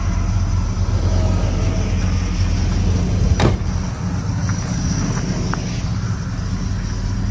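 1966 Pontiac GTO's V8 engine running steadily as the car is driven, with a single sharp click about three and a half seconds in.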